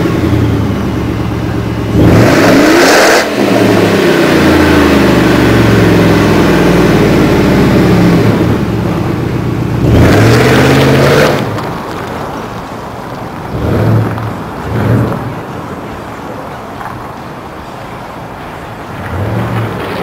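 2002 Ford F-150's 5.4-litre V8 through a Gibson split rear exhaust being revved: a sharp rev about two seconds in that falls away slowly, another rev near ten seconds, then idling with three short throttle blips.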